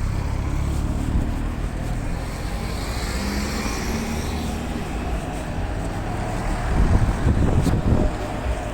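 Road vehicle noise: a steady low engine rumble, with a whooshing swell about three seconds in.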